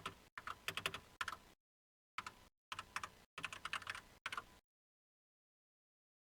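Computer keyboard typing in quick bursts of key clicks, stopping about four and a half seconds in.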